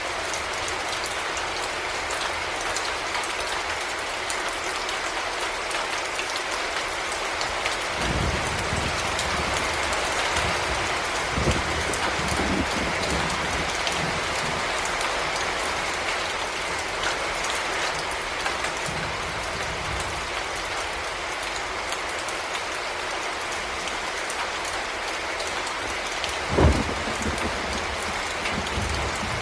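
Heavy rain falling steadily in a dense, even hiss, with a few low thuds: two about a third of the way in and a louder one near the end.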